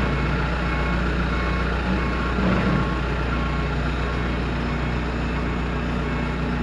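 Golf cart's motor running steadily while it is manoeuvred, with its reverse warning beeper sounding in short repeated beeps.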